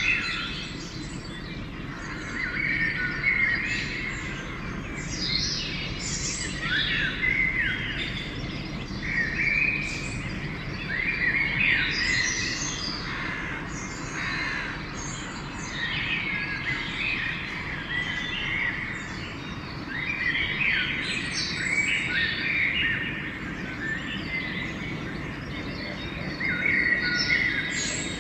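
Dawn chorus of several songbirds singing at once: overlapping chirps and short song phrases, one after another, over a low steady background rumble.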